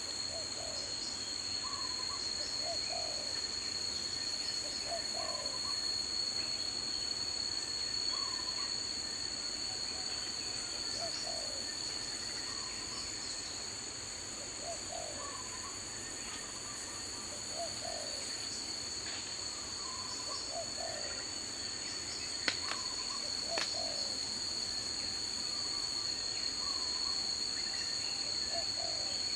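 Daytime forest ambience: insects trill steadily at a high pitch while a bird repeats a short, low two-note call every two to three seconds. Two sharp clicks sound a little past the middle.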